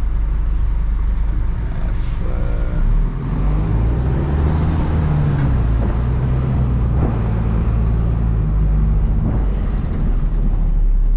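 Diesel engine and road noise of a Hino cab-over box truck heard from inside the cab, a steady low hum whose pitch rises and falls as the truck pulls through town.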